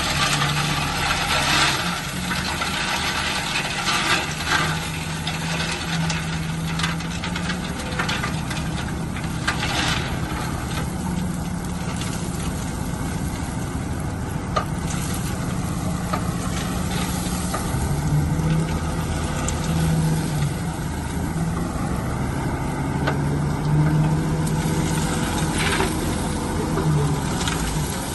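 Heavy diesel engine of a construction machine running under work, its pitch rising and falling as it is throttled. Louder rushes of noise come near the start, around ten seconds in and near the end.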